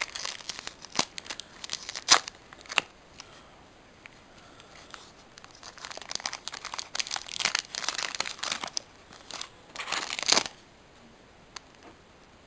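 Foil Pokémon booster pack wrapper being crinkled and torn open, in bursts of sharp crackles and snaps. The busiest, loudest crinkling comes in the second half.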